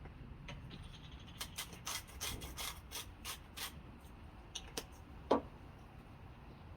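A salt or pepper grinder being twisted over a bowl: a quick run of about eight short rasping grinding strokes, followed by a few clicks and one sharp knock about five seconds in.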